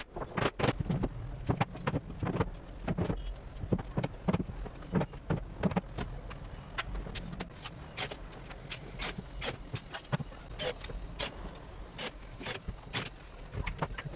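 A rapid, irregular series of sharp knocks and taps on a hard surface, thickest in the first few seconds, over a steady low hum.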